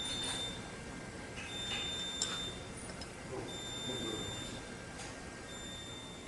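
Electronic beeper sounding a high, steady beep about a second long, repeating about every two seconds, with light clicks and handling noise from work on the machine.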